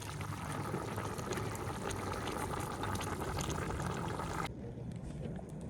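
A pot of liquid bubbling at a boil over a wood fire, with many fine ticks and pops over a steady low rumble. About four and a half seconds in the higher bubbling sounds cut off abruptly, leaving only the low rumble.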